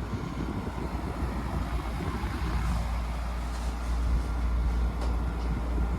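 Kenmore (LG) 5,300 BTU window air conditioner running in cooling mode, its rotary compressor and blower fan going together: a steady low hum under an even rush of air.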